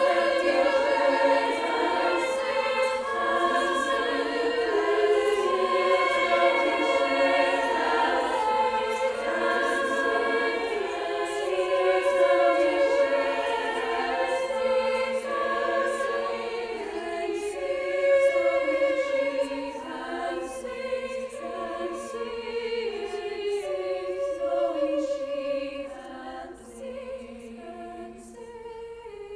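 Choir singing in harmony, holding long chords that move from note to note, growing quieter over the last few seconds.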